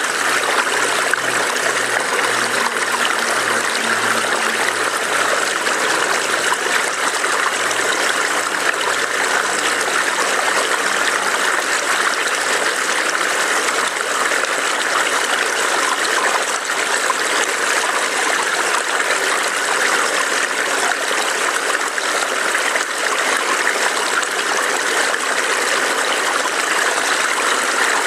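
Small forest stream burbling over rocks: a steady, even rush of running water that does not change.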